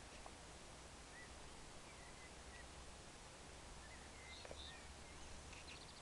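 Near silence with a steady hiss, broken by a few faint, short bird chirps scattered through.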